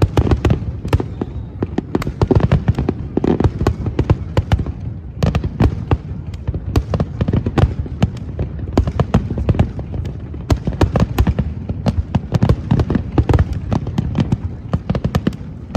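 Fireworks display going off in a dense barrage: many sharp bangs and crackles every second over a continuous low rumble.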